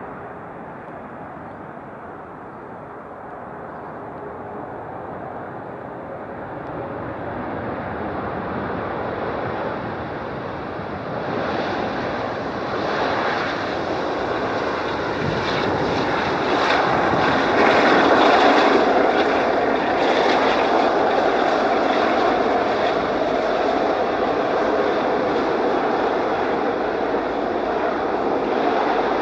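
Boeing 777-200ER jet airliner on its landing run-in, the engine noise swelling steadily as it approaches. It is loudest a little past halfway and stays loud to the end.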